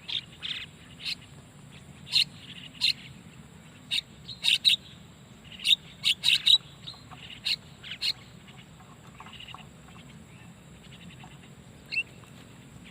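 Short, sharp starling (jalak) calls, repeated irregularly about fifteen times, coming thickly over the first eight seconds and then only once more near the end.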